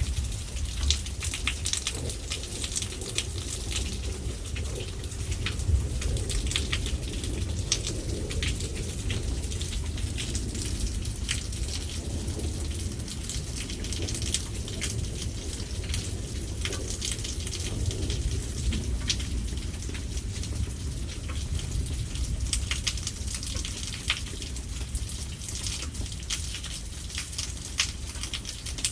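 Rain falling, with many separate drops ticking on a nearby surface over a steady low rumble.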